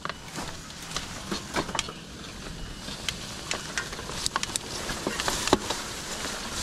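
Mountain bike riding down a rough dirt trail: a steady rush of tyre and trail noise with frequent irregular clicks and clatter from the bike rattling over bumps.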